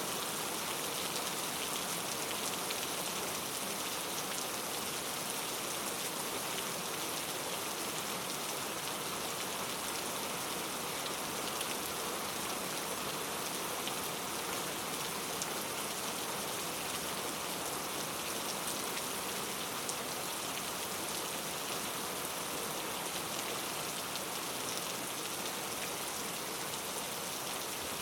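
Steady rain falling on forest foliage, an even hiss of drops with faint scattered patters.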